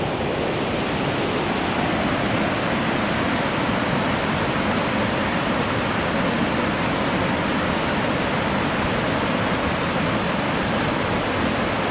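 Agate Falls, one of the largest waterfalls in Michigan, rushing: a steady, even noise of falling water with no change in level.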